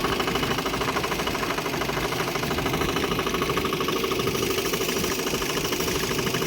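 Motorboat engine running steadily with a fast, even pulse.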